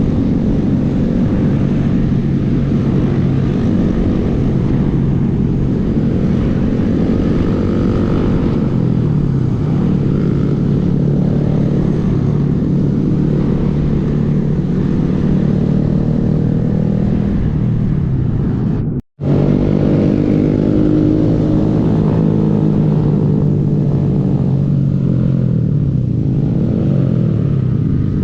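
Small single-cylinder Honda motorcycle engine running on the move, its pitch rising and falling with throttle and gear changes. The sound cuts out for an instant about two-thirds of the way through.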